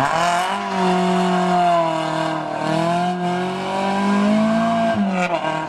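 Rally car engine at high revs, its pitch held up with small rises and dips as the car is driven hard through a corner, falling away about five seconds in.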